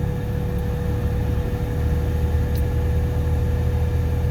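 1989 Pontiac Bonneville's 3.8-litre V6 idling steadily just after a cold start at about −3°F, with a steady whine over the low engine hum.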